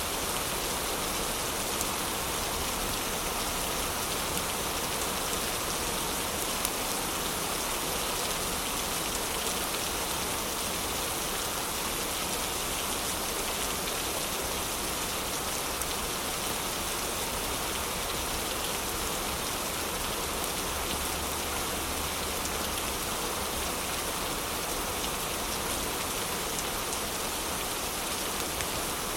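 Heavy rain falling steadily, an even, unbroken hiss of rain with no pauses.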